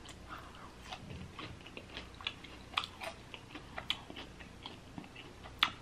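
A person chewing fried chicken close to the microphone: soft, irregular mouth clicks and smacks, with one sharper click near the end.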